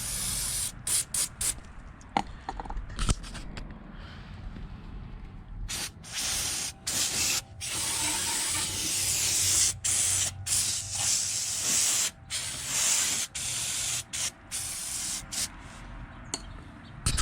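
A spray hissing on and off in repeated short bursts, with a longer run in the middle, as the greasy scooter engine is sprayed down to clean it.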